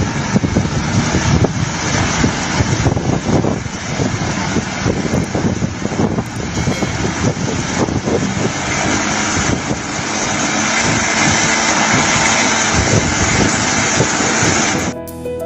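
Homemade ultralight aircraft's Kawasaki motorcycle engine running loudly and steadily, a dense rough noise that cuts off suddenly near the end.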